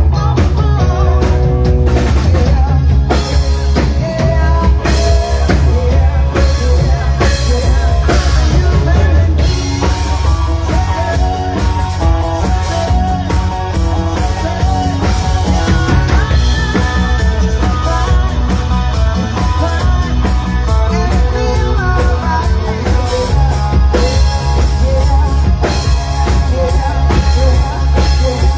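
Rock band playing a song: drum kit and guitar over a heavy, steady bass line.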